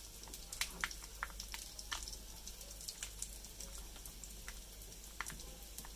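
Faint, scattered crackles from tikkis shallow-frying in ghee: sharp irregular ticks a few times a second over a low steady hum.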